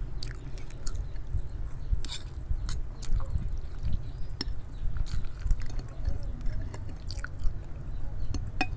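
Chewing of noodles and fried egg, with scattered sharp clicks of a metal spoon and fork against a glass plate, over a low steady hum.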